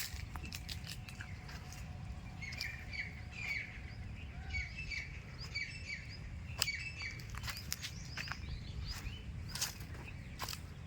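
Birds chirping: many short, quick, downward-sliding calls in loose series, thickest from about two seconds in until about seven seconds in, over a low rumble with scattered sharp clicks.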